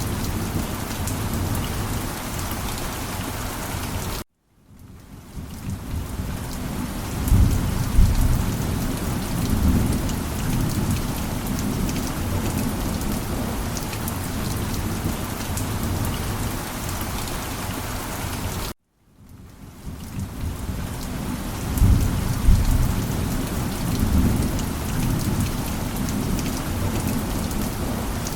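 Steady heavy rain with thunder rumbling twice, low and loud. Twice the sound cuts out suddenly for about half a second and fades back in, the seam of a looped recording.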